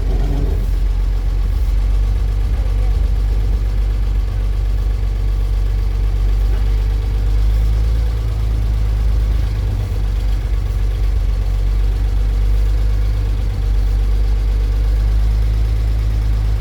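1937 International truck engine running steadily at low revs, with a deep, even note and no changes in speed.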